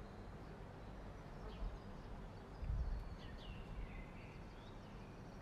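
Faint outdoor ambience: a few short, high bird chirps over a steady low rumble, with a brief louder low surge in the rumble about halfway through.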